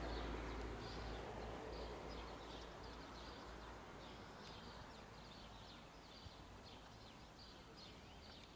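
Small bird calling repeatedly, short high chirps about twice a second, over a low outdoor background rumble that fades over the first few seconds.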